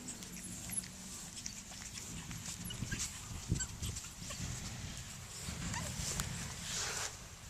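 Yorkiepoo puppies playing and moving about, with scattered small scuffles and taps and a short noisy rustle near the end.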